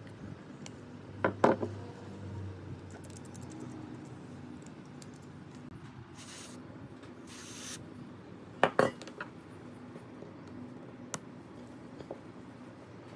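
Small metal tool parts clinking against each other or a hard surface, a sharp clink pair about a second in and another near nine seconds, with two short hisses in between.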